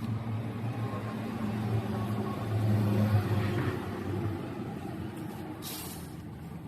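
A motor vehicle's engine running with a low hum, growing louder about three seconds in and then fading away.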